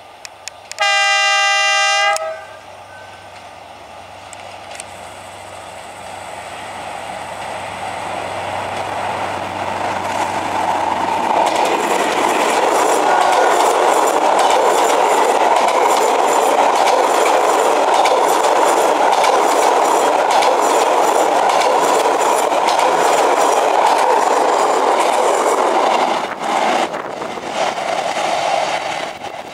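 D19E diesel-electric locomotive sounding one horn blast about a second in, lasting about a second and a half, as a warning for the level crossing. Its engine hum follows as it passes, then the passenger coaches clatter over the rail joints in a loud, rhythmic clickety-clack that drops away near the end as the train recedes.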